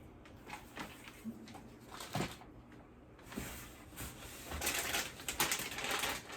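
Items and their plastic packaging being handled while rummaging through a box: scattered small clicks and knocks, then a burst of crinkling plastic near the end.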